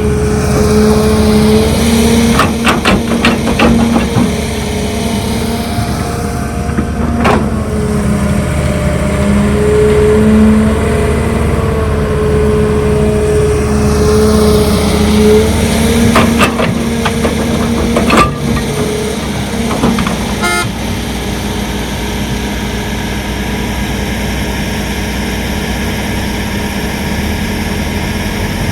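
Heavy earthmoving machine's diesel engine running under load, its pitch rising and falling as it works, with a few sharp knocks: a cluster about two to four seconds in, one near seven seconds, and more around sixteen to eighteen seconds.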